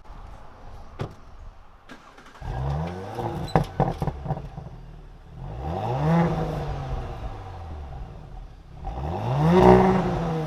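Audi S4's exhaust as the stationary engine is revved three times in Comfort drive mode, each rev rising and falling back, the last the loudest.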